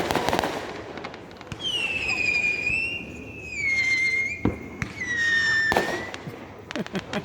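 Fireworks: a bang, then whistling fireworks giving long whistles that slide slowly down in pitch, another bang between them, and a quick run of crackling pops near the end.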